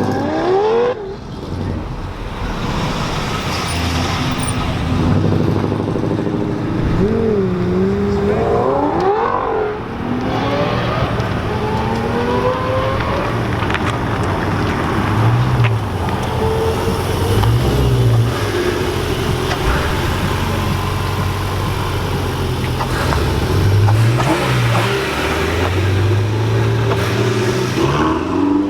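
Car engines revving and accelerating, their pitch rising and falling several times over a steady background of traffic noise.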